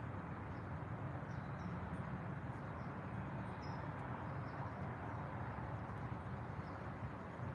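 Scattered short, high bird chirps, faint, over a steady low rumble of background noise.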